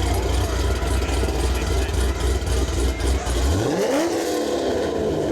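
A car engine with a low rumble that is revved once about three and a half seconds in, its pitch climbing quickly and then easing back down.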